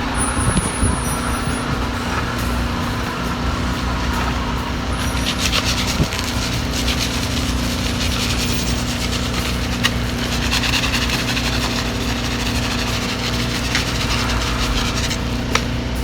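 An engine running steadily, a constant low hum. A stretch of rough scraping noise about five to seven seconds in.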